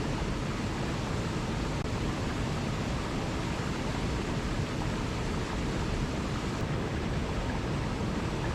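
Waterfall rushing: a steady, unbroken wash of falling water with no changes.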